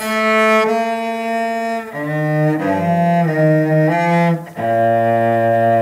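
Cello bowed in a slow melody of long held notes: one note held for about two seconds, a few shorter, lower notes, then a long low note near the end.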